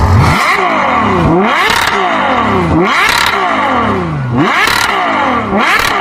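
Engine revved repeatedly, four times: each time the pitch drops and then sweeps sharply back up, about every second and a half. The sound is loud and cuts off suddenly at the end.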